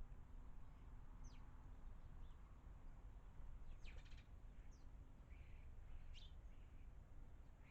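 Faint, scattered chirps of small garden birds, several short calls falling quickly in pitch, with a small cluster about four seconds in, over a steady low background rumble.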